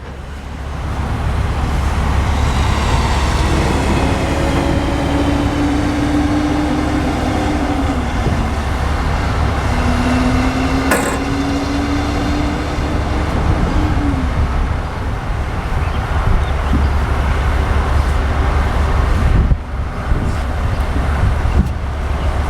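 Steady low rumble of traffic and truck engines, with two vehicles going by, each with a steady tone that drops in pitch as it passes. A single sharp knock comes about halfway through.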